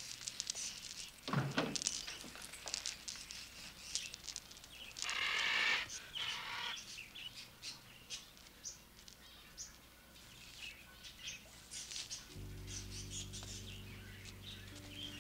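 Birds chirping and twittering with many quick high chirps, a falling whistle about a second in and a harsher call about five seconds in. Low sustained music chords come in near the end.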